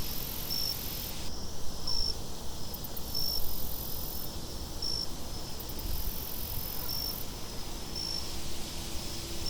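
Crickets chirping: short high chirps about once a second, with a higher insect trill that comes and goes in spells of a second or so. Beneath them, a steady low wind rumble.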